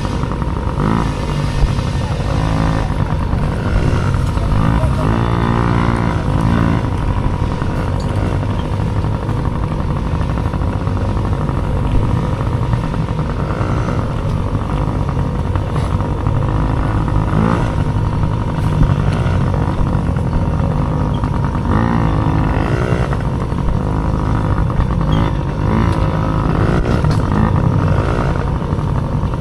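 Dirt bike engine revving up and falling back repeatedly, its pitch sweeping up several times as it accelerates, over a loud constant low rumble.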